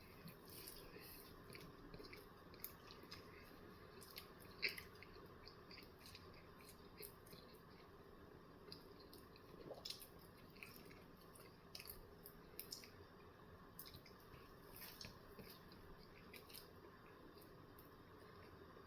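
A person chewing a sausage, egg and cheese bagel with the mouth close to the microphone: faint, soft wet chewing with scattered small clicks and smacks.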